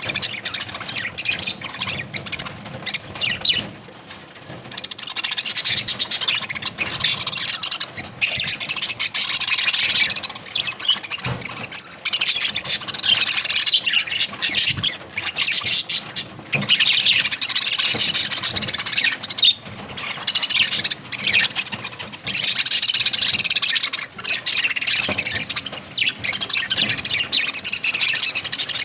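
A flock of budgerigars chattering and chirping, in dense stretches of warbling a few seconds long, with scattered short clicks and taps between them.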